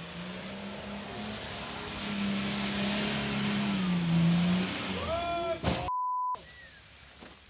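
A motor vehicle's engine running with a steady hum that gets louder and then dips in pitch about four seconds in, followed by a short loud thud and a brief one-tone censor bleep.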